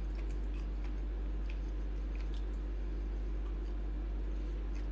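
A person chewing and biting cheese with small, wet mouth clicks scattered through, over a steady low hum.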